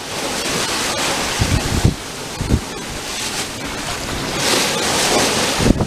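Wind blowing over the microphone with gusty low buffeting, over the rush of sea water and waves along the hull of a sailboat heeled over and sailing close-hauled.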